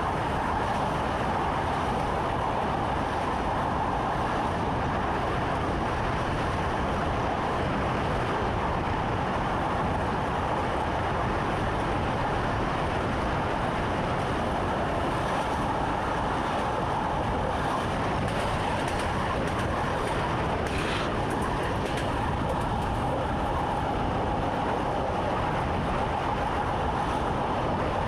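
Electric commuter train running steadily along the line, an even rumble with wheel and rail noise heard from inside the driver's cab.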